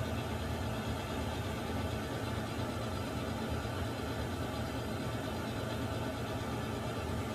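Water heater running: a steady rushing hum with a low rumble underneath.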